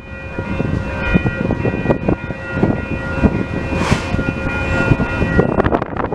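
Amtrak Downeaster passenger train passing close by: its wheels clatter and knock over the rails, under a steady high multi-tone sound held throughout. A short hiss comes about four seconds in.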